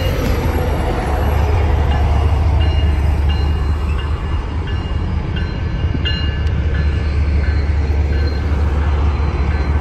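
Diesel locomotives of a Union Pacific stack train passing, giving a loud, steady low rumble, with short high-pitched tones coming and going over it.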